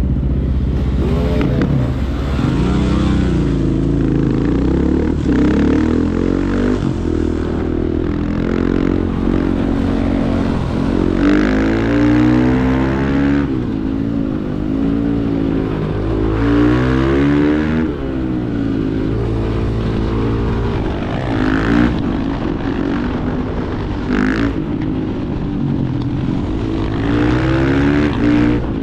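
Supermoto motorcycle engines revving hard, pitch climbing and dropping again and again as the bikes accelerate, shift and brake.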